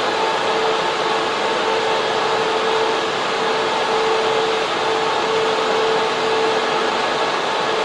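Data centre server room: server cooling fans and air-cooling units running, a steady loud rush of air with a constant hum.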